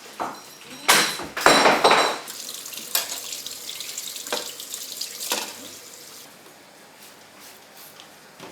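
Water running from a tap into a sink, loudest in rushes between one and two seconds in, with a few sharp clinks of dishes after.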